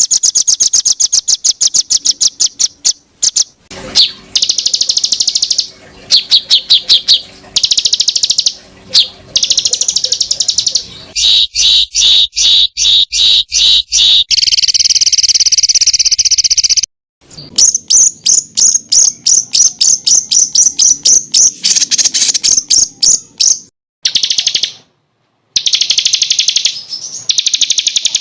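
Songbird masteran recording: fast rapid-fire runs of sharp, high chirping notes (tembakan), many notes a second, spliced into segments that stop abruptly twice with brief silences.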